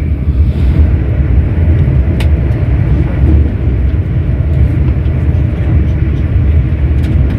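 Running noise of a moving train heard from inside the carriage: a steady low rumble, with one short click about two seconds in.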